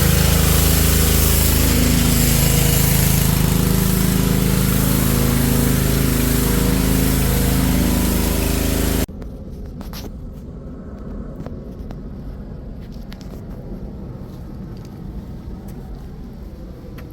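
Small petrol engine of a pressure washer running steadily, its hum under a loud hiss of spray. The sound cuts off abruptly about halfway through, leaving a quieter low rumble with a few faint knocks.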